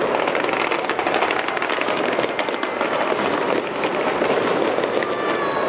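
Aerial fireworks going off in a dense, continuous crackle of rapid pops over a steady rumbling haze of bursts.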